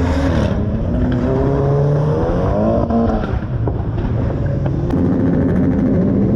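Car engines running and revving, their pitch rising and falling, with more than one engine heard at once.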